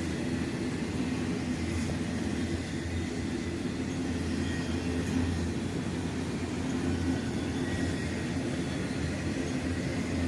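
Norfolk Southern freight train rolling past, a steady low rumble of the cars on the rails.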